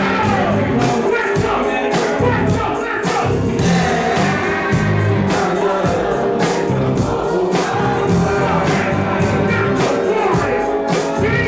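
Loud live music with a singer over a steady drum beat and bass.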